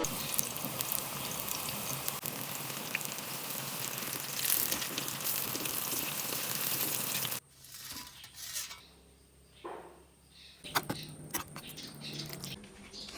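Food sizzling and crackling in a hot frying pan, cutting off suddenly about seven seconds in; after that come a few scattered light clicks and knocks.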